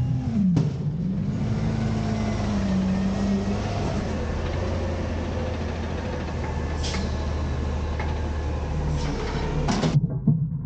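Autocar/Heil Freedom half-pack garbage truck working: engine revs drop right at the start, then a steady rushing hiss runs for about ten seconds with a few sharp knocks, the loudest near the end, before it cuts off.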